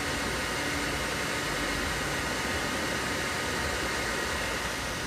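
A 2015 Yamaha YZF-R1's crossplane inline-four idling steadily through a Graves titanium full exhaust.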